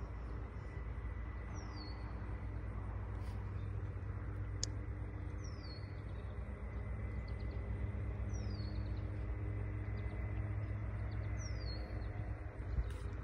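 A small bird repeating a short, high, falling call about every three seconds, over a steady low rumble.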